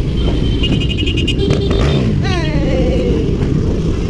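Dirt bike engine running under heavy wind noise, its pitch falling as the revs drop a little after two seconds in. A brief high pulsing tone sounds near the start.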